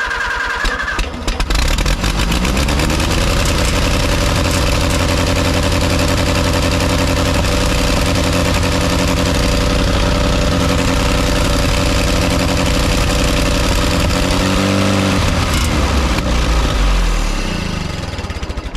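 Allis-Chalmers WD45 tractor's four-cylinder gasoline engine cranking on the starter, catching about a second in and revving up. It runs steadily, then slows near the end and stops.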